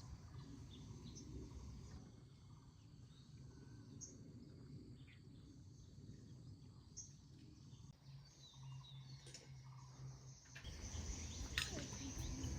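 Faint outdoor ambience with scattered short bird chirps. The background noise grows louder about two-thirds of the way through.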